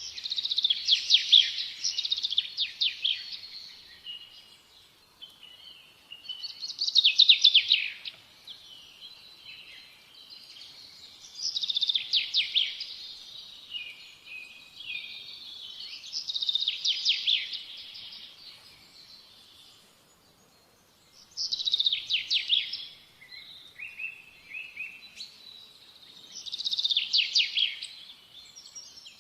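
A small songbird singing, repeating a high, rapid trilling phrase about every five seconds, with softer chirps in between.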